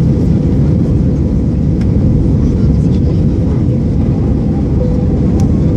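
Airbus A320 jet engines and airflow heard from inside the passenger cabin: a loud, steady, deep rumble with no breaks.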